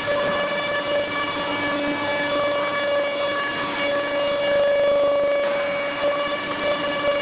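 CNC stone router spindle running while machining quartz stone: a steady high whine with several overtones, over a rough noise, with no breaks.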